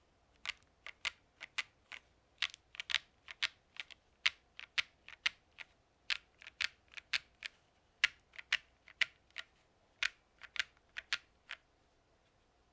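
Keystrokes on a MonsGeek M1 mechanical keyboard with WS Quartz switches, a PC plate and GMK keycaps: slow, irregular typing of single keys, about three a second, stopping about a second before the end.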